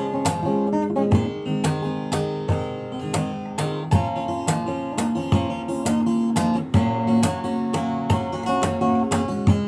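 Solo acoustic guitar played fingerstyle, a steady run of plucked notes with percussive accents on the strings a few times a second.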